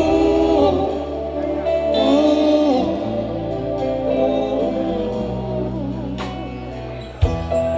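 Live band music with a voice singing long, drawn-out notes over steady bass notes that change every second or two.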